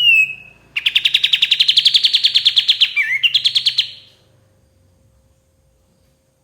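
Kapas tembak, a bulbul, singing: a short falling whistle, then a fast trill of about ten notes a second, rising slightly in pitch and lasting about three seconds with a brief break near its end.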